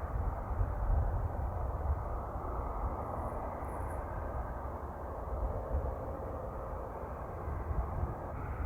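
Propeller aircraft engines running steadily at a distance, heard as a continuous rumble with a deep low end.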